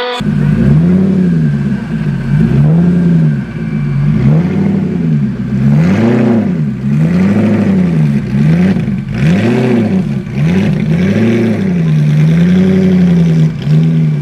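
Koenigsegg CCXR's twin-supercharged V8 revved over and over, the engine note rising and falling about ten times, then holding steadier near the end.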